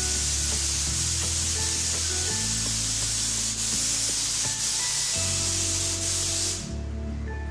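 Paint spray gun hissing steadily as paint is sprayed onto the car's rear side panel, cutting off near the end as the trigger is released. Background music plays underneath.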